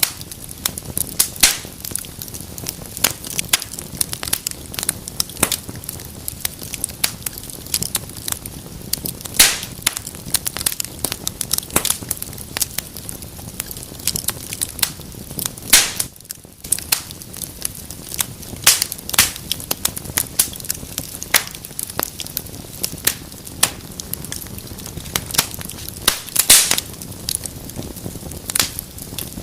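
Fire in a fireplace crackling, with frequent irregular sharp pops over a steady low rustle. A few pops stand out louder, around a third of the way in, about halfway, and near the end.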